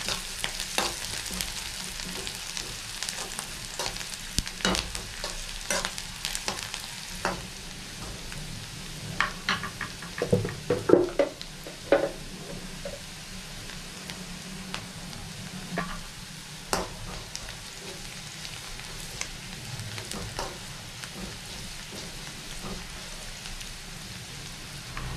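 Sliced onions and green chillies sizzling in hot oil in a kadai, stirred with a spatula that scrapes and clicks against the pan. A run of louder knocks comes about halfway through.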